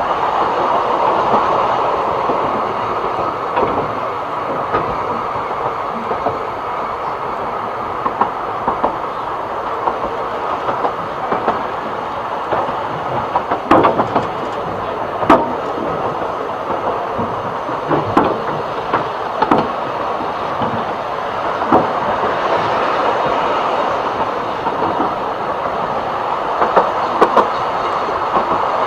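Narrow gauge steam train's carriage running along the track with a steady rumble and a handful of sharp wheel clicks over the rail joints, mostly in the second half. The locomotive is coasting with little steam, so there is no clear exhaust beat.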